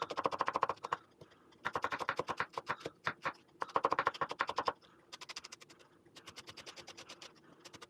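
Kitchen knife chopping vegetables on a cutting board in quick, even strokes: three loud runs of rapid chops, then a softer, steady run of lighter strokes.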